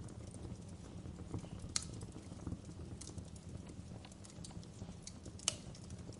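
Wood fire crackling: irregular small snaps and pops over a low steady rumble, with two sharper, louder pops, one about two seconds in and one near the end.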